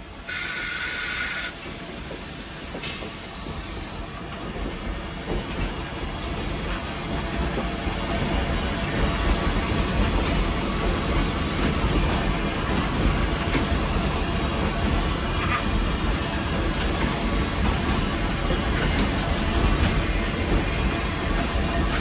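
Nevada Northern No. 81 steam locomotive working, heard from inside its cab: a steady mix of running noise and hiss that builds over the first several seconds and stays loud. A short high-pitched sound lasting about a second comes right at the start.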